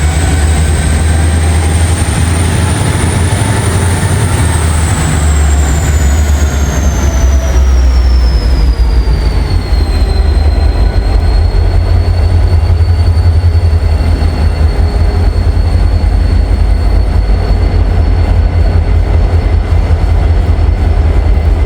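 Freight train moving close by during switching: a heavy low rumble with a thin high-pitched whine that rises slightly, falls steeply over several seconds, then holds steady.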